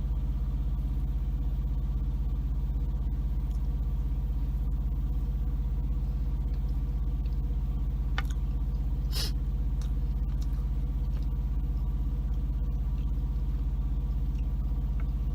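Semi truck's diesel engine idling steadily, a low even rumble heard from inside the cab, with two brief sharp noises about eight and nine seconds in.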